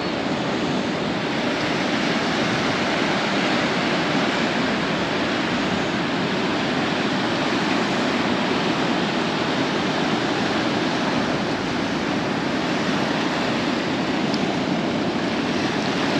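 Steady rush of Gulf surf and wind on an open beach, with no distinct events.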